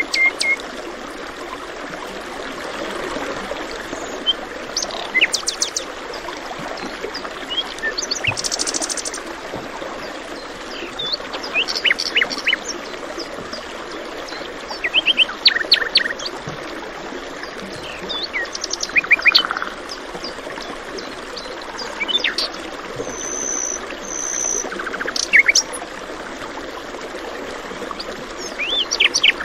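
Several songbirds chirping and trilling in short scattered phrases over the steady rush of a flowing stream.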